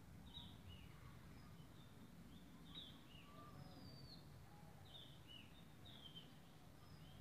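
Near silence: faint bird chirps, short falling notes that come every second or so, over a low rumble.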